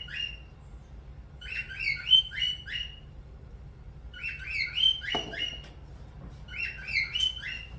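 A bird singing the same short phrase of quick chirps three times, about every two and a half seconds. A single light knock comes about five seconds in.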